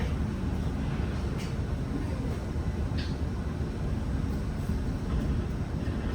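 Steady low rumble inside the cabin of a Zhongtong N12 bus on the move, with a few faint rattles.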